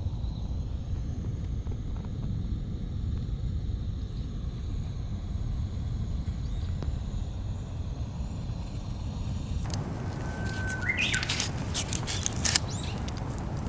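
Steady low rumble of outdoor background noise. About ten seconds in, a run of sharp crackles and clicks starts, with a short rising bird chirp among them.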